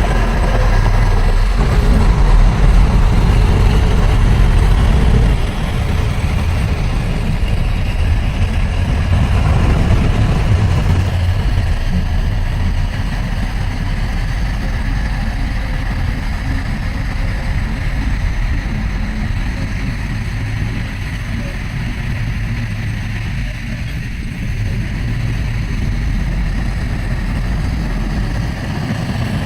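Heavy diesel earthmoving machinery running steadily, a low engine drone that is a little louder for the first five seconds or so.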